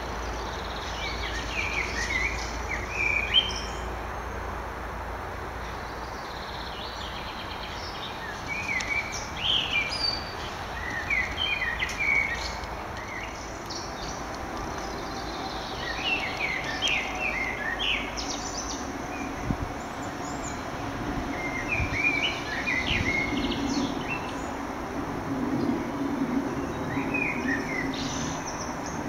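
A songbird singing short chirping phrases every few seconds, over steady outdoor background hiss. A faint low hum rises in the second half.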